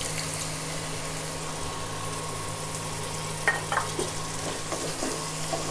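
Ground spice and onion masala sizzling in oil in a pot as a splash of coconut milk is poured in to keep the powdered spices from burning. A wooden spatula stirs and knocks against the pot a few times about three and a half seconds in, over a steady low hum.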